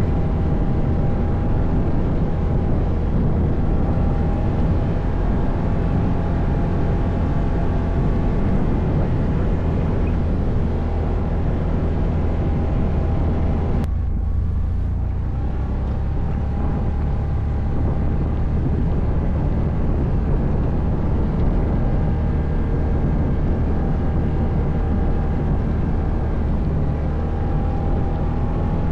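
ATV engine running steadily while riding off-road, with a continuous drone. The sound briefly thins out about halfway through, then picks up again.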